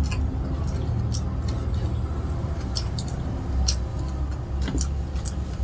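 Close-up chewing of crispy fried catfish and rice: irregular sharp mouth clicks and wet smacks, several a second at times, over a low steady hum.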